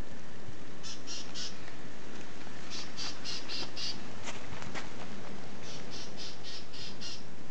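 A bird calling in runs of short, high, evenly repeated notes: three, then five, then six, about three or four a second, over a steady background hiss.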